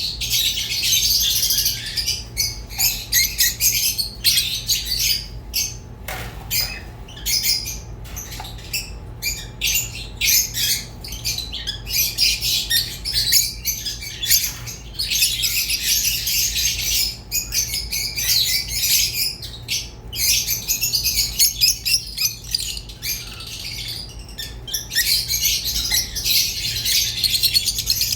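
Rosy-faced and Fischer's lovebirds chattering and chirping without pause in rapid high-pitched calls, over a faint steady low hum.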